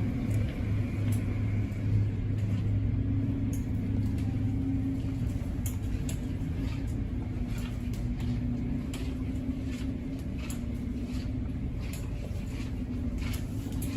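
Steady low rumble heard from inside a car riding through an automatic tunnel car wash, from the wash machinery and brushes working over the car, with scattered light ticks of water and brushes striking the body.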